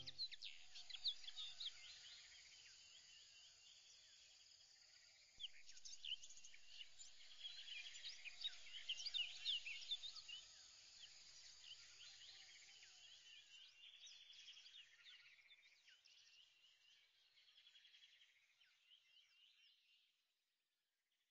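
Faint chorus of many small birds chirping in quick, overlapping high calls, busiest a few seconds in and fading out near the end.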